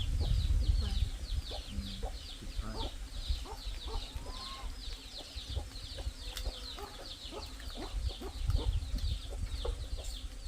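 Chickens clucking now and then, over a steady high chirping that repeats about four times a second.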